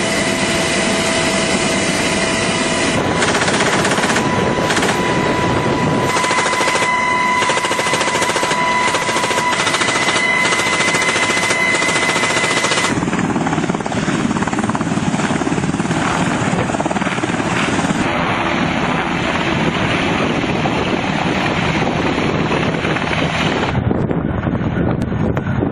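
Loud, continuous aircraft noise with a steady high whine over it, changing abruptly about halfway through and again near the end.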